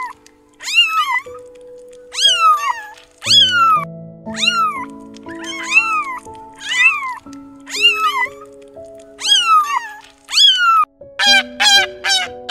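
A kitten meowing over and over, about once a second, each high meow rising and then falling, over soft piano music. About eleven seconds in, the meows give way to a quick run of short calls from another animal, about four a second.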